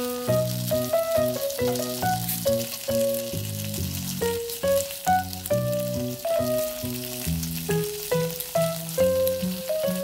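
Chicken pieces sizzling in oil in a frying pan, a fine steady crackle, under louder background music with a melody and bass line.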